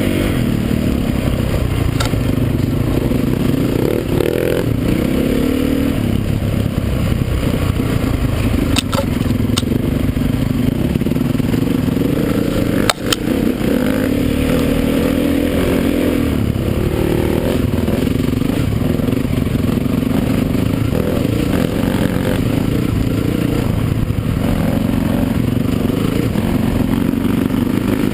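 Motocross bike engines running hard, their pitch rising and falling as the riders rev and ease off, with a few sharp knocks, the loudest about halfway through.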